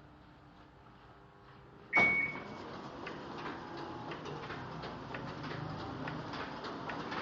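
Komori Sprint 26 sheet-fed offset printing press: a sudden loud clank with a brief ring about two seconds in, then the press running with a steady clicking clatter.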